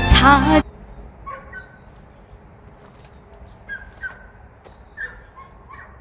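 A song with a singing voice cuts off just after the start. Then several short, faint animal calls follow, some of them in pairs.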